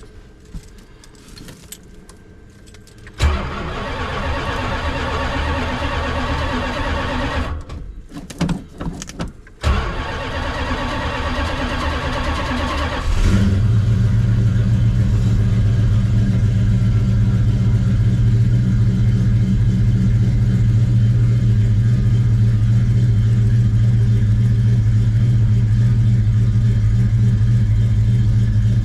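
Dodge Dart's engine cranking over on the starter in a cold start, stopping briefly, cranking again, then catching about thirteen seconds in and settling into a steady idle. It has a light tick from exhaust leaks at the pipe and manifold joints.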